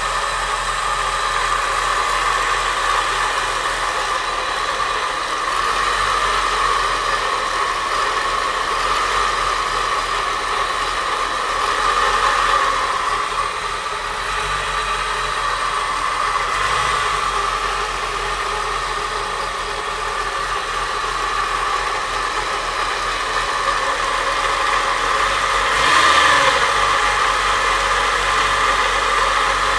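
A 4.1 engine running at idle, recorded to show a strange noise it is making. The engine note swells briefly twice, about halfway through and near the end.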